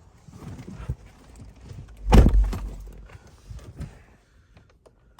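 Irregular knocks and clatter, with one heavy thump about two seconds in and fainter small clicks near the end.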